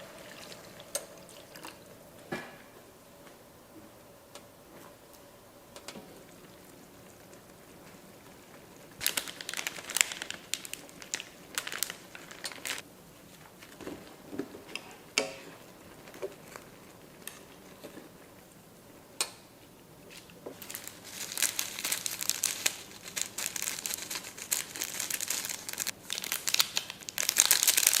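Plastic packaging crinkling and being torn, in two spells, the second longer, with scattered small clicks and taps between them.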